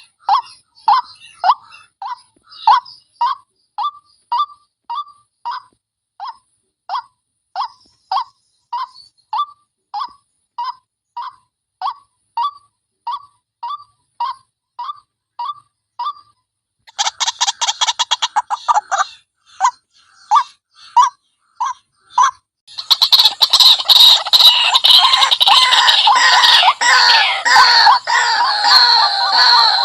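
White-breasted waterhen lure call: one harsh 'wak' note repeated steadily about twice a second, then after a short pause a faster run of notes, and from about three quarters of the way through a loud, dense chorus of overlapping harsh calls.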